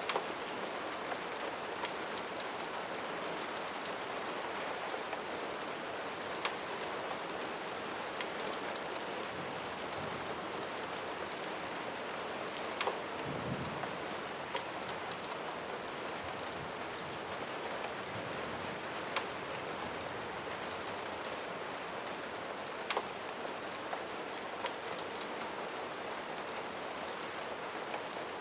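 Steady rain falling on a surface, with scattered sharp ticks and pops over it and a brief low thud about halfway through.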